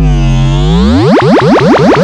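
Loud, distorted electronic pitch-sweep effect. A harmonic-rich tone holds very low, then from about a second in rises in a run of upward glides that come quicker and quicker.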